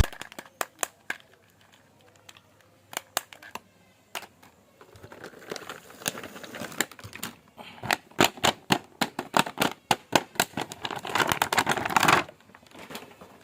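Handling of a plastic action figure and its packaging: a run of sharp clicks and taps, with two stretches of crinkling and rustling, about five seconds in and again near the end.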